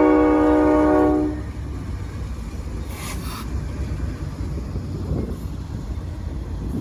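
Locomotive multi-chime air horn sounding a loud chord that cuts off about a second and a half in. A steady low rumble follows, with a brief hiss about three seconds in.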